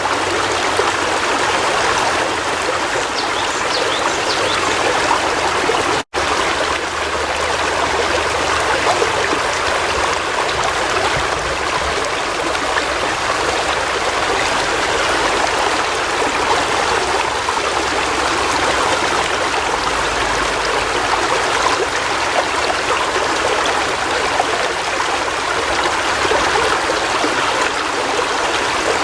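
River water flowing steadily, with a brief dropout about six seconds in.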